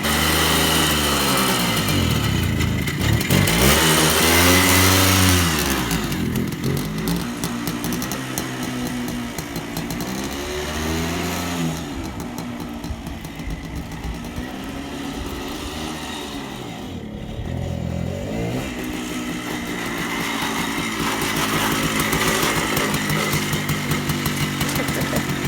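Minsk 125 motorcycle's single-cylinder two-stroke engine running, its revs raised and dropping back several times, the biggest rise a few seconds in, then running more steadily near the end.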